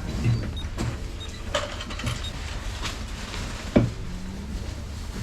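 Scattered knocks, clicks and rustles of groceries being handled at a shop checkout, with one sharp knock near the end, over a low steady rumble.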